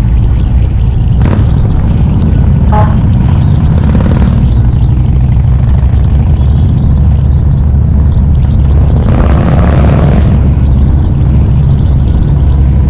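Harley-Davidson V-twin engine running under way, a steady deep exhaust rumble, with a brief rush of higher noise about nine seconds in.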